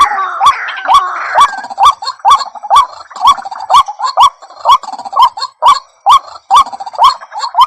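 White-breasted waterhen (ruak-ruak) calling: short rising notes repeated steadily, about two a second, with a harsher chatter under them in the first second and a half.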